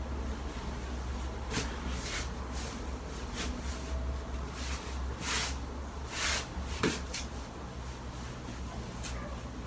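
Scattered short rustles and a few light knocks of things being handled, over a steady low hum.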